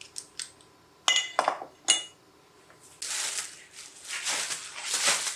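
A few light ticks, then several sharp, ringing clinks of small hard objects knocking together about a second in, followed from about three seconds in by a louder, uneven rustling.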